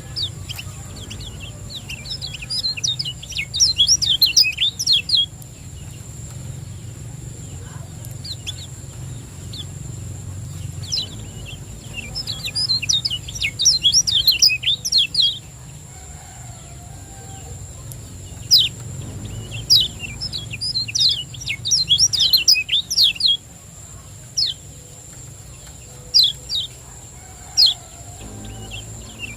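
Kecial kuning (a white-eye) giving quick runs of sharp, high 'ciak' chirps in three rapid bursts, with single chirps between them. This is the fast 'ciak jos' chattering used as a tutor call for caged birds.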